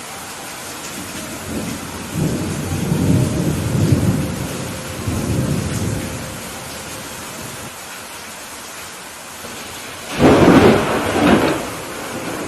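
Steady rain with thunder: a low rolling rumble from about two to six seconds in, then a louder, sharper clap of thunder about ten seconds in that dies away over a second or so.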